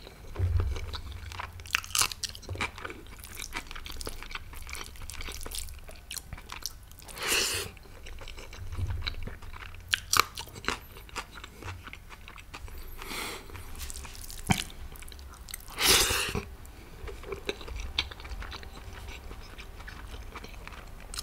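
A person chewing and biting food close to the microphone, with small wet mouth clicks and smacks and a few louder noisy rushes spread through. The food is soft paneer in butter masala gravy.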